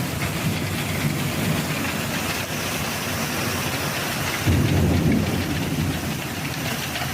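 Heavy rain falling steadily, with low rumbles of thunder, the loudest about four and a half seconds in.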